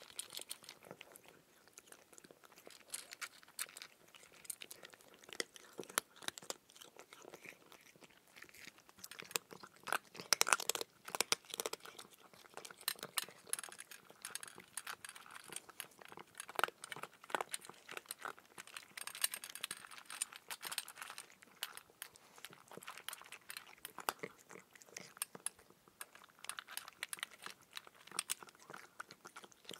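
Close-up chewing of raw cucumber: irregular crisp, wet crunches, with denser, louder runs of crunching about ten seconds in and again around twenty seconds.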